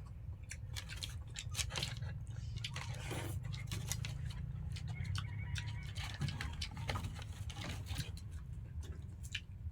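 Close-up eating sounds of a person chewing ripe jackfruit: irregular wet clicks and mouth smacks, over a steady low hum.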